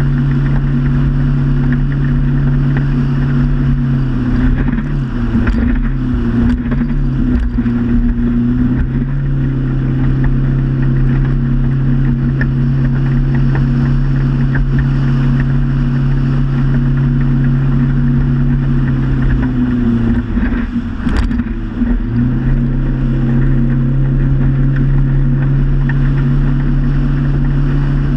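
Motorboat engine running steadily at cruising speed. Its pitch dips and wavers briefly a few seconds in and again about three quarters of the way through, then settles back.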